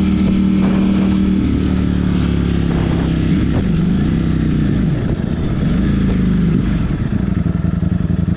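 Ducati motorcycle engine running under way, at a steady pitch at first, then rising and falling several times in the middle as the throttle and speed change, and settling again near the end. Wind rushes over the microphone throughout.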